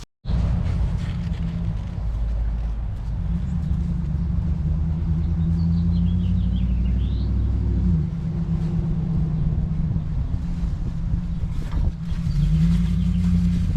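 An engine running steadily with a low hum; its pitch drops about eight seconds in and rises again near the end. A bird chirps briefly midway.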